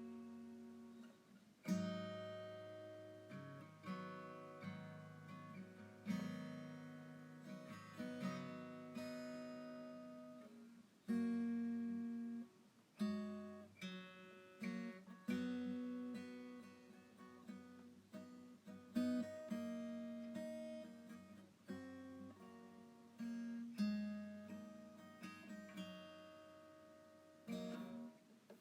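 Background music of acoustic guitar, chords strummed every second or two and left to ring out.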